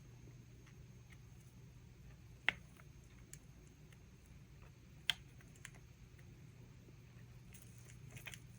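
Light clicks and taps of tools and containers on a work table: two sharp clicks about two and a half seconds apart and a few softer ticks, over a faint steady hum.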